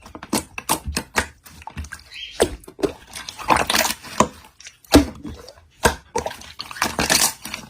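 Slime being squeezed and poked by hand, giving a quick, uneven run of wet clicks and pops.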